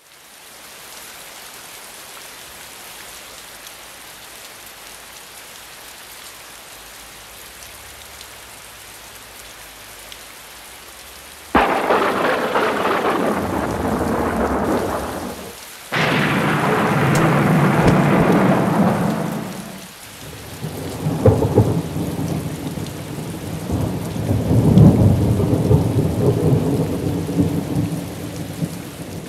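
Thunderstorm: steady rain hissing. About halfway through, two sudden thunderclaps break in a few seconds apart, each rolling on for several seconds. A longer rumble of thunder with a few sharp cracks follows near the end.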